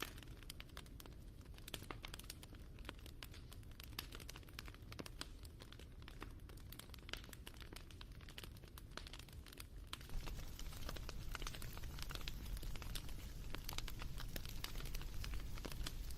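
Wood fire crackling, with many small irregular pops and snaps over a low steady rumble. It gets louder about ten seconds in.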